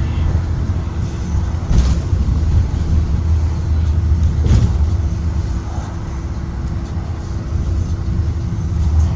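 Blue Bird Vision school bus under way: a steady low engine and road rumble with a constant drone, broken by two brief knocks or rattles about two and four and a half seconds in.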